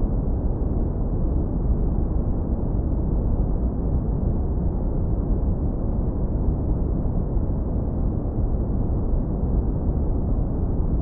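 Deep brown noise, low-pass filtered hard so that only a warm, steady low rumble remains, with no tones or changes.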